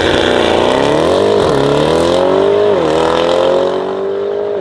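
Tuned Mercedes-AMG GT63 S twin-turbo V8, fitted with downpipes, accelerating hard under full throttle. Its pitch climbs between quick upshifts about a second and a half in and again near three seconds in. It grows quieter and duller near the end as the car pulls away.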